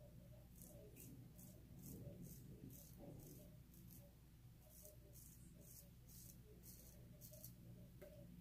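Faint scraping of a kamisori-style straight razor with a Feather Artist Club blade cutting stubble through lather, in a run of short strokes about three a second with a brief pause around four seconds in.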